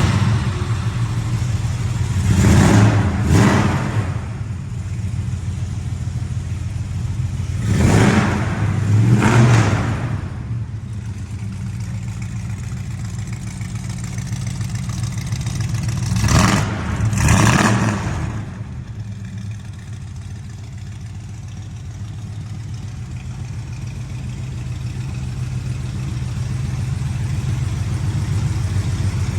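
Car engine idling just after a semi-cold start, revved twice in quick succession three times: near the start, about 8 seconds in and about 17 seconds in. The sound echoes off the walls of an enclosed space.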